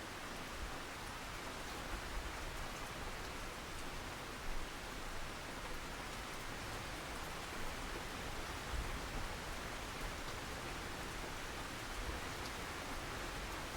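Steady rainfall, a continuous hiss with scattered individual drops pattering on a surface.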